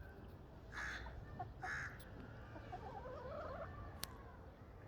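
Desi chickens clucking and calling: two short, loud calls about a second apart near the start, then softer clucking. A sharp click about four seconds in.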